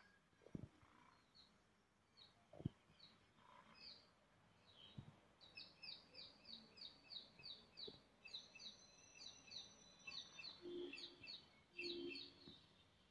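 Faint birdsong: small birds chirping, sparse at first, then a quick, even run of about three high chirps a second through the second half. A couple of faint clicks sound in the first few seconds.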